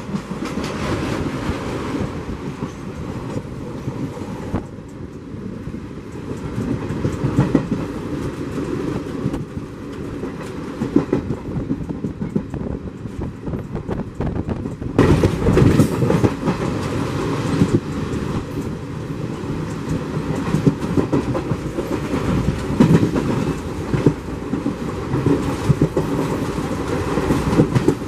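Passenger train running at speed, heard from an open coach doorway: a steady rumble with the clickety-clack of wheels over rail joints. For the first few seconds the coaches of a train on the next track rush past, and from about halfway through the running noise grows louder.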